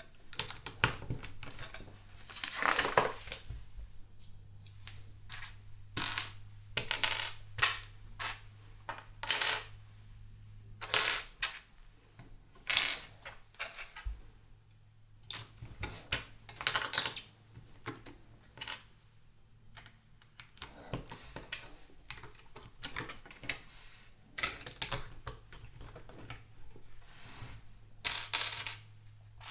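Small plastic LEGO pieces clicking and clattering in irregular bursts as a set is built, with a few longer rattles of pieces being handled together.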